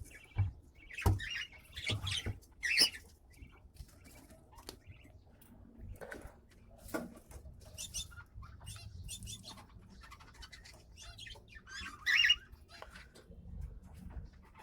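Small caged pet parrots chirping in short, scattered calls, with a louder burst of chirps near the end. A few sharp taps and clicks come in between.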